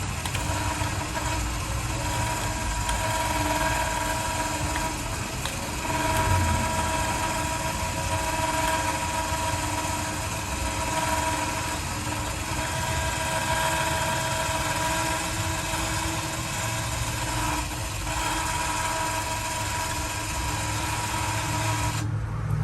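Pickup truck engine running steadily, with an even, unchanging hum.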